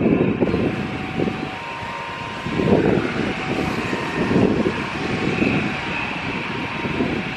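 Jet airliner engines running at a distance, with a faint steady whine, under strong gusty wind buffeting the microphone in rumbling swells.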